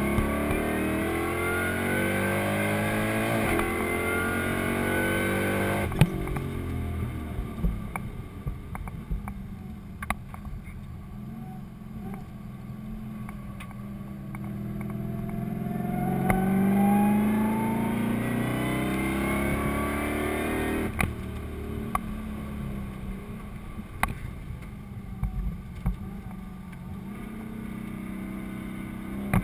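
Supercharged LS1 V8 in a Holden VE Commodore under hard acceleration, heard inside the cabin, its pitch rising for the first few seconds. A sharp knock about six seconds in, after which the revs fall and it runs quieter. It pulls again with rising pitch around the middle, gives another knock, then runs lower with scattered clicks near the end.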